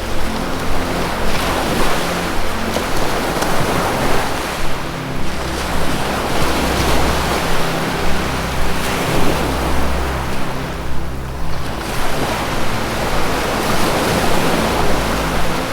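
Ocean surf washing in, the rush of the waves swelling and easing every few seconds, over low, soft held notes of ambient music.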